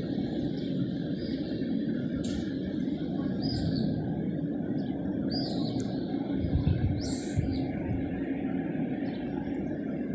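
Birds chirping several short times over a steady low hum, with a couple of low thumps about six and a half seconds in.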